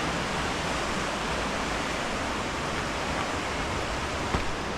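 Fast-flowing river water rushing steadily, an even, unbroken rush of water noise.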